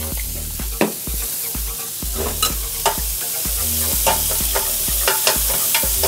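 Bacon and onions sizzling as they fry in bacon and beef fat in a grill pan, the onions caramelizing. Over the steady hiss come scattered clacks and scrapes of a utensil stirring them in the pan.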